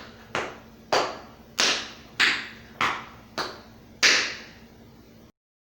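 Tap shoes' metal taps striking the floor: seven sharp, evenly spaced taps about 0.6 s apart, the last one the loudest.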